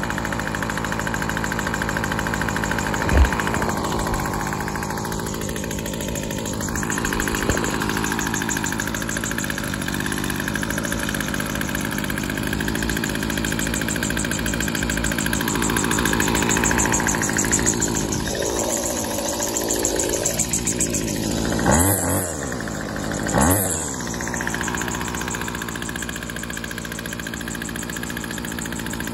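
WeedEater SST25 string trimmer's small two-stroke engine idling steadily just after a cold start, with two short revs near the end and a single sharp click about three seconds in.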